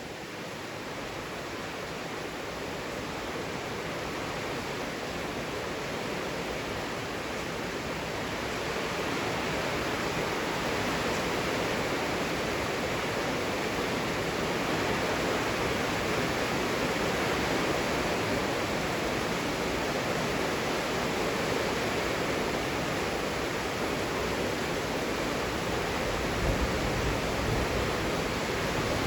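Heavy rain falling, a steady dense hiss that swells up over the first several seconds and then holds. Near the end a low rumble of thunder starts.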